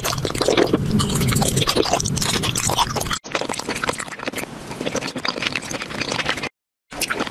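Close-miked candy eating: crunching, crackling and wet chewing of gummies and hard sweets, in short takes broken by two brief silences.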